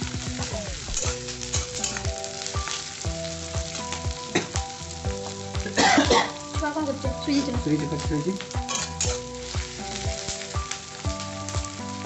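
Sliced onions and green chillies sizzling in oil in a black kadai, stirred with a flat steel spatula that scrapes and clinks against the pan, with one louder clatter about halfway through.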